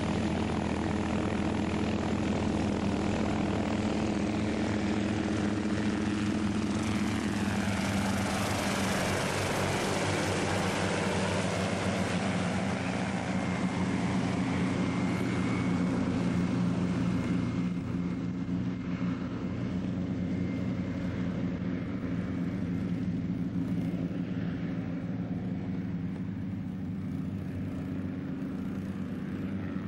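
Hughes 300 piston-engined helicopters flying in formation, engines and rotors running steadily. A higher rushing sound swells about a third of the way in, then fades as the helicopters pass.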